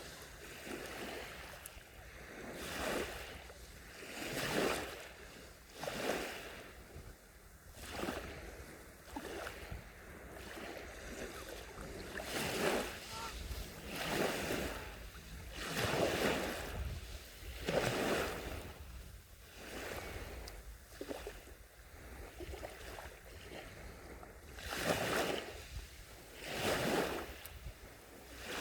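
Small sea waves breaking and washing onto the shore, a surge of hiss swelling and falling back about every two seconds.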